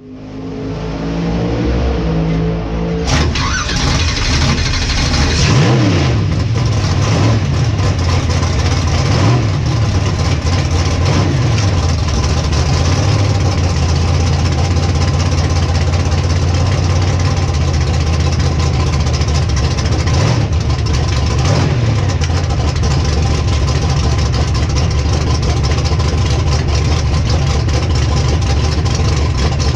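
Drag race car engine idling loud and steady, revved up and let fall back several times in the first dozen seconds and once more about twenty seconds in.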